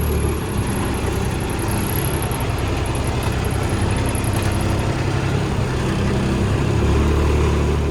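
Vehicle engine running steadily at low speed, a constant drone with no change in pace.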